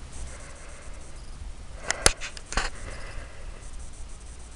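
Handling noise: a few sharp clicks and knocks about two seconds in, over a steady low rumble of wind on the microphone.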